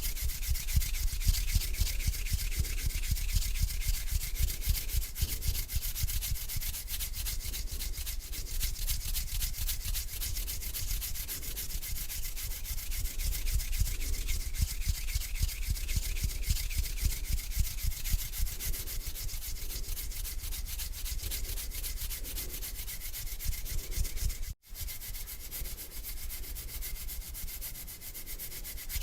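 Hands rubbing together slowly and continuously: a dry, steady swishing. It drops out for a split second near the end.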